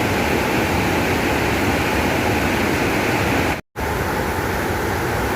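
Waterfall roaring: a loud, steady rush of white water, cut by a short gap of dead silence a little past halfway through.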